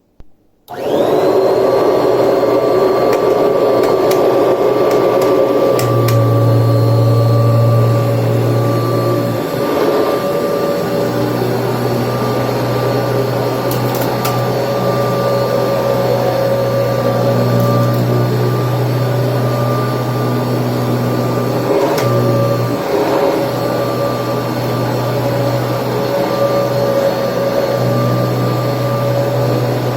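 Kirby Tradition upright vacuum cleaner switched on less than a second in, its whine rising as the motor spins up, then running steadily. A deeper hum comes and goes over it.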